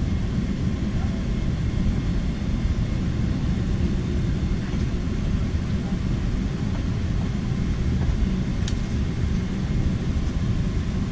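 Airliner cabin noise: a steady low rumble from the aircraft's air systems and engines, with a faint click near the end.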